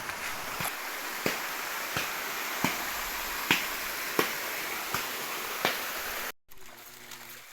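Steady rush of flowing water with a knife chopping on a board, sharp knocks about every 0.7 s. The sound cuts off abruptly near the end.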